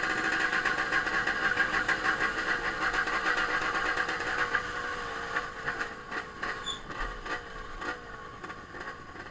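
Trail motorcycle engine running and revving up and down, louder for the first few seconds and then fading.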